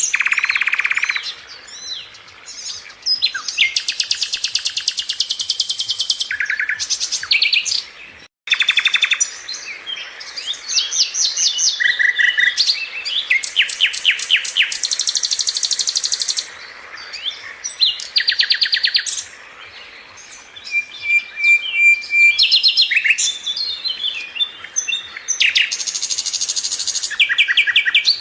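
Sikatan londo flycatcher singing: a fast, varied song of high, rapid trills and chattering phrases, each a second or two long, with short pauses between them.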